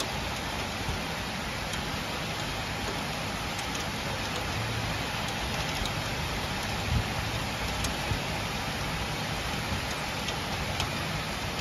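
Rain falling steadily during a thunderstorm, with scattered sharp ticks of drops striking a hard surface.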